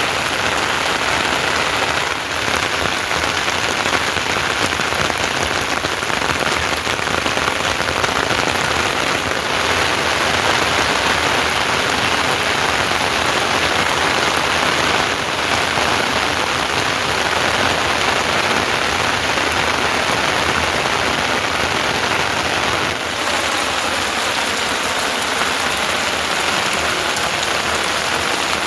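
Steady rain falling and pattering on surfaces, a dense unbroken hiss that holds a constant level.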